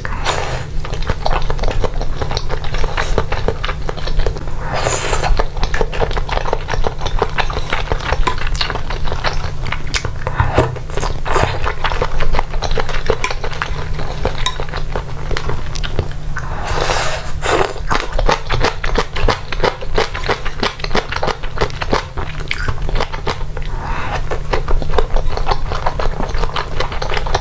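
Close-miked eating: rapid, wet clicks of chewing and lip smacking on skewered food from a bowl of chili oil, with bamboo skewers scraping and tapping in a glass bowl.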